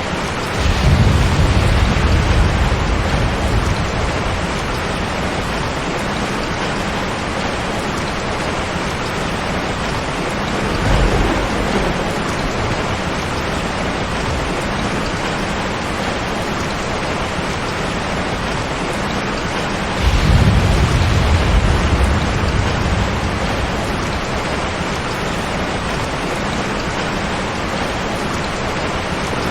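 Steady heavy rain, with rumbles of thunder three times: a long one about a second in, a short one near the middle, and another long one about two-thirds of the way through.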